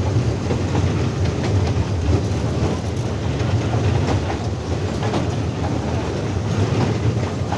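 A train running on rails: a steady rumble with scattered light clicks.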